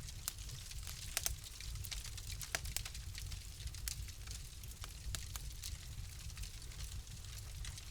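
Fire in a fireplace crackling, with irregular sharp pops over a steady low rumble and faint hiss; the loudest pops come in the first three seconds.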